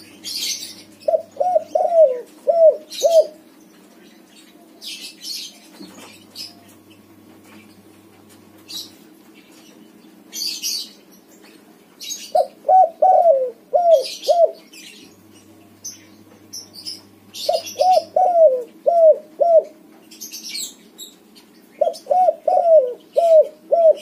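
Spotted dove (tekukur) cooing in full song: four phrases of about six quick falling coos each, the first about a second in and three more in the second half. Small birds chirp high and briefly between phrases.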